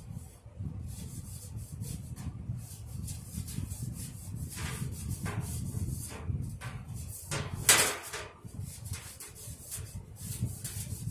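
A disinfectant wipe rubbing over a Lasko Weather Shield box fan's case, with a run of handling knocks and scrapes as the case is moved about. A louder sharp knock comes about three quarters of the way through.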